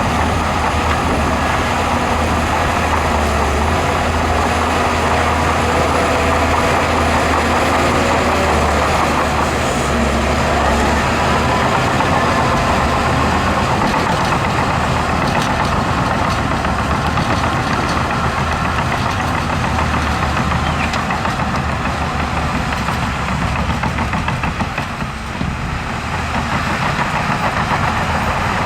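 Heavy diesel engine of earthmoving machinery running steadily under work, with a brief dip in level near the end.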